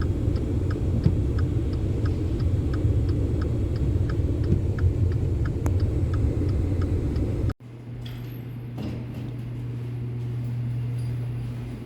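Strong wind buffeting the microphone as a loud, steady low rumble, with a faint regular ticking about three times a second over it. It cuts off suddenly about seven and a half seconds in, giving way to a quieter steady low hum.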